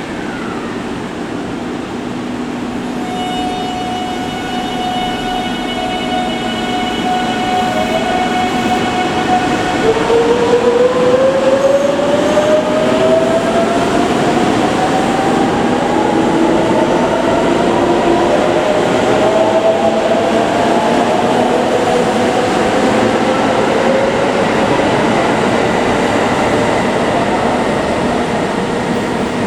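Electric train pulling away: a steady whine of several tones gives way about ten seconds in to a motor whine rising steadily in pitch as it accelerates, growing louder over the rumble of the wheels.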